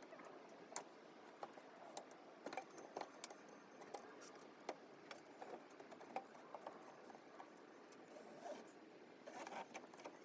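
Faint, irregular clicks, taps and rustling of small parts being handled, with a denser patch of rustling near the end.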